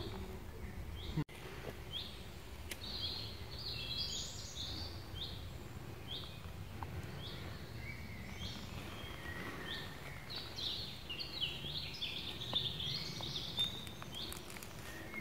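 Woodland birds singing: a short high chirp repeated about once a second, with a busier, warbling song joining in, over a low steady outdoor rumble. A single sharp click about a second in.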